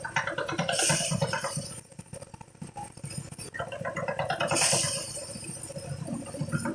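Harvest threshing machine running with a fast, rattling pulse, with two surges of hissing, rustling noise, about a second in and again past the middle, as material passes through it.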